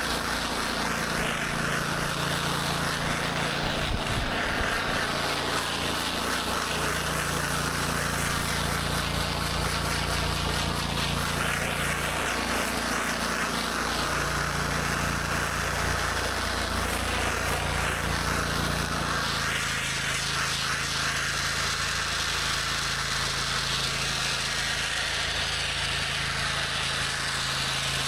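Gas-engine pressure washer running continuously, its engine hum stepping between two pitches every few seconds, under the steady hiss of high-pressure water spraying on concrete.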